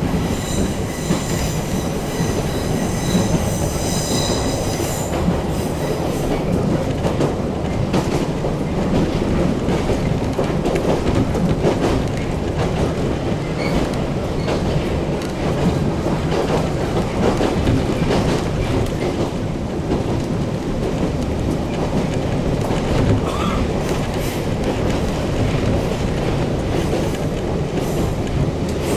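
Toyama Chihō Railway electric train running, heard from inside the passenger car: a steady rumble of wheels on rail with repeated clicks over the rail joints. A high whine in the first few seconds fades out.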